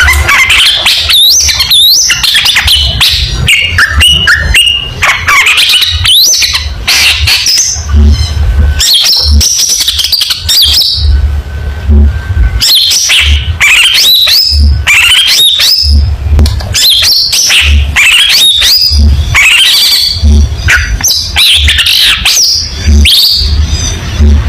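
Long-tailed shrike (cendet) singing loudly in a rapid, varied stream of sharp whistled notes, slurred glides and harsh squawking calls, sung as a competition-style song. A low hum comes and goes underneath.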